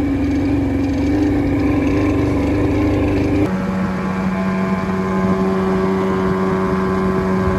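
Two-stroke outboard jet boat motor running steadily on the last of its fuel, the tank tipped to draw out every bit of gas. Its note changes abruptly about three and a half seconds in.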